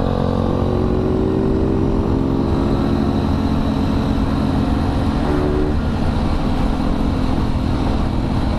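Yamaha RX-King's two-stroke single-cylinder engine running under way, its pitch easing slowly down over the first few seconds and then holding steady.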